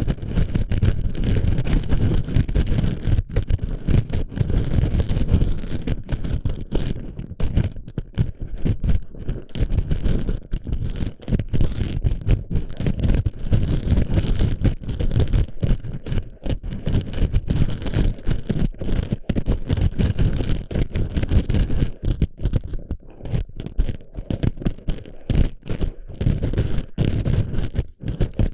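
Plastic airsoft BB pellets being packed into and rattling around a microphone's ear, a dense, continuous clatter of tiny clicks and scrapes close to the mic.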